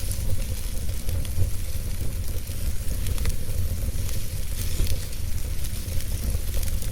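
Wood fire crackling and hissing steadily, with scattered sharp pops over a constant low rumble.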